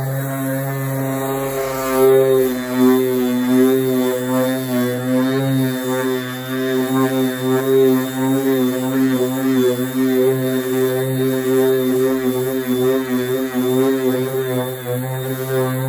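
Power sander running steadily on the car's painted body with 180-grit paper, taking off clear coat, its motor drone wavering a little in pitch as the pressure on it changes.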